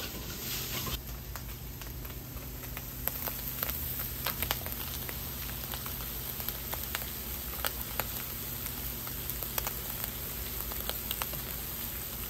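Chicken pieces frying in a hot pan: a steady sizzle scattered with short crackles and pops, with a low steady hum underneath.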